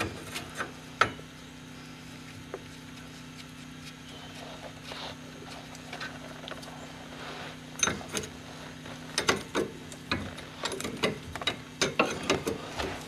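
Hand tools clicking and clinking on the steering drag link's ball-joint bolts as they are undone, in scattered bursts that come thickest near the end, over a steady low hum.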